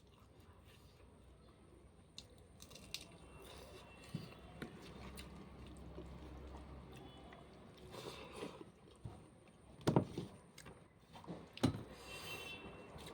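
Someone eating a meal of rice: quiet chewing and crunching, with a few sharper clicks and knocks near the end.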